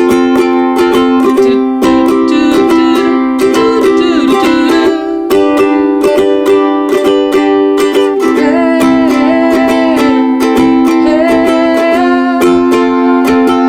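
Ukulele strummed in a steady rhythm through the four-chord progression C, G, A minor, F, with a voice singing the melody along with it in places.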